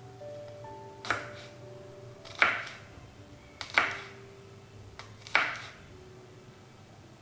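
Kitchen knife chopping on a cutting board: four separate, unhurried strokes about a second and a half apart, over faint soft music.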